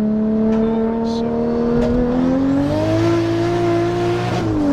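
Turbocharged Toyota 2JZ inline-six, swapped into a Hyundai Genesis, running steadily. Its pitch climbs as it revs up about two seconds in, holds high, then falls sharply near the end.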